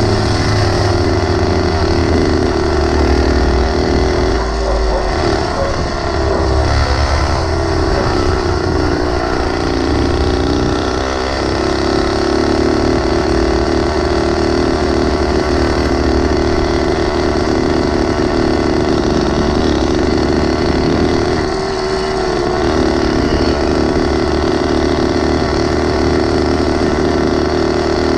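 Small engine of a motorized 20-inch-wheel mini bike running while riding. Its pitch dips and climbs back a few seconds in and again later as the throttle eases and opens.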